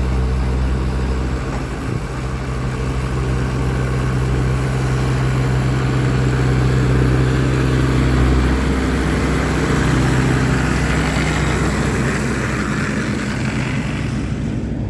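A motor vehicle's engine running with a steady low hum that shifts in pitch a little past halfway. A hiss builds over it and drops away just before the end.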